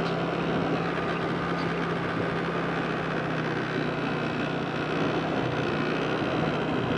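Motorbike engine running steadily on the move, holding an even pitch.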